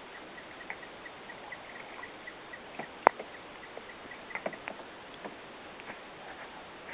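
Scattered sharp knocks and clicks of paddling a canoe, the loudest about three seconds in and a few more about a second later. Under them runs a faint series of evenly spaced high chirps, about four a second, through the first half.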